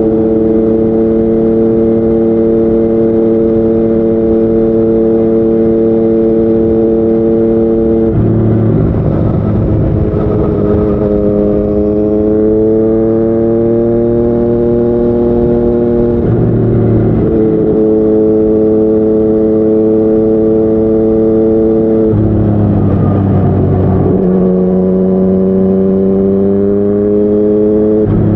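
Yamaha MT-09's three-cylinder engine through a Yoshimura R55 slip-on exhaust, running on the road under steady throttle. The note holds level for several seconds, climbs slowly in pitch, and drops sharply about halfway through and again near the end.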